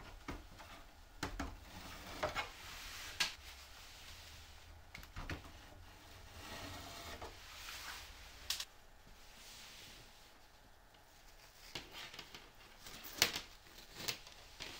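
Scattered clicks, taps and rubbing from parts being handled, a few sharper knocks among them, over a faint steady hiss.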